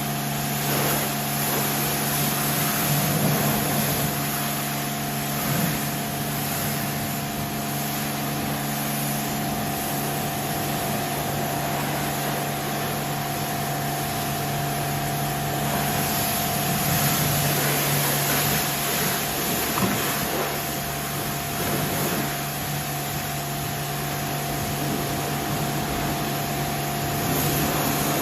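Steady hum of an electric motor with a fan, with a constant hiss over it; it is switched off abruptly near the end.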